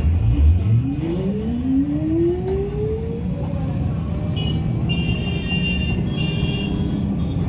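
Road traffic noise, with a vehicle engine's pitch rising steadily over about three seconds as it accelerates. A high steady tone sounds over the traffic through the second half.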